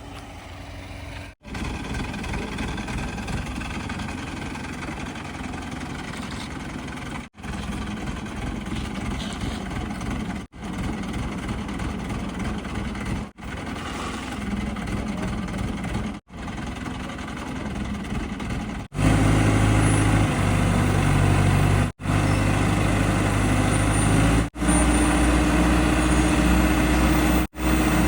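Heavy diesel engines running, from the earthmoving machines and tipper trucks, in a series of short clips joined by abrupt cuts. From about two-thirds of the way in a louder engine runs with a steady low hum.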